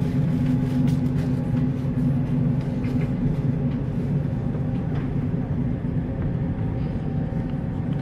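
Passenger train running at speed, heard from inside a carriage: a steady rumble of wheels on the rails with a low hum and scattered light clicks and rattles.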